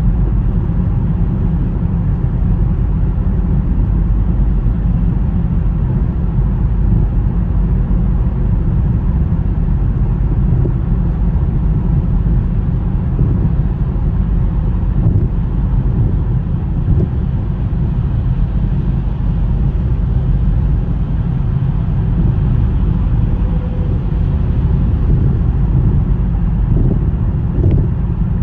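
Steady low rumble of a car driving through a blizzard, tyre and road noise mixed with wind.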